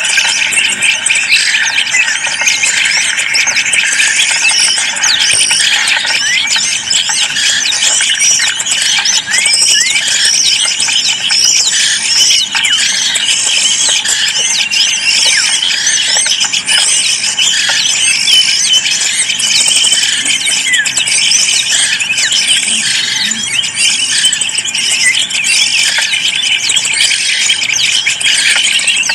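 Small birds chirping and squeaking continuously in a dense, high-pitched chatter of many short overlapping calls.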